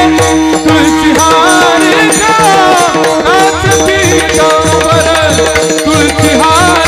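Marathi bhajan music: pakhawaj drum strokes in a steady rhythm with jingling hand cymbals, under held drone notes and a sliding melody line.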